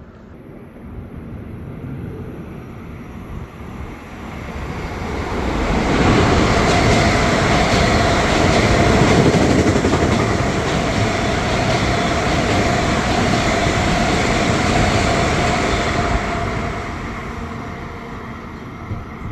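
Long Island Rail Road train passing close by: it builds up, runs loud for about ten seconds with a steady whine over the rumble of the wheels, then fades away.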